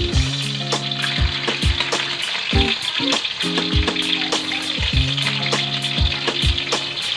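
Chicken wings frying in a wok, a steady sizzling hiss. Background music with held chords and a regular low beat plays alongside.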